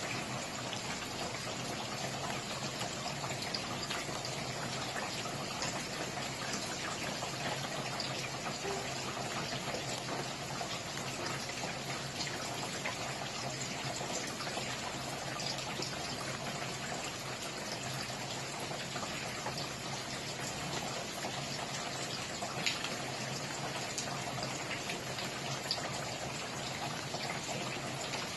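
Steady rain falling, with a constant hiss of water and many individual drops ticking, a few of them sharper and louder.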